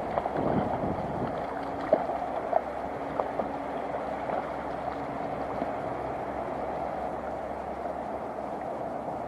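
Stream water running steadily, with a few short splashes or knocks in the first few seconds.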